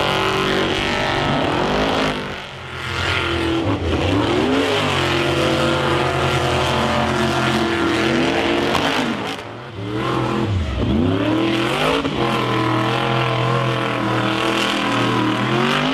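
Monster truck engine running hard at high revs. The throttle drops off about two seconds in and again around ten seconds in, and each time the engine revs back up.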